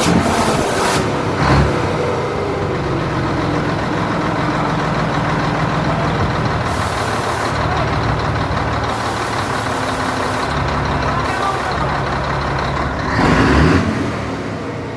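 Scania T112H truck's turbocharged diesel engine running steadily, its turbocharger fitted with a 'pente' comb on the intake to make it whistle. Several hissing bursts come and go over the engine, and a louder one comes near the end.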